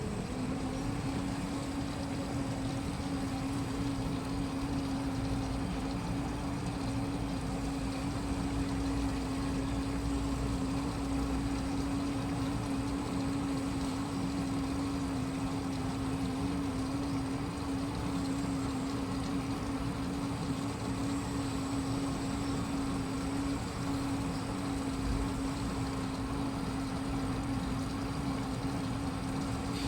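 Washing machine running with a steady hum at one unchanging pitch over a low rumble.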